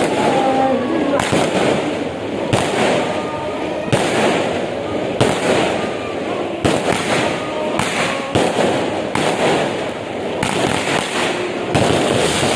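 Firecrackers and fireworks going off: a continuous crackle with sharp bangs about once a second.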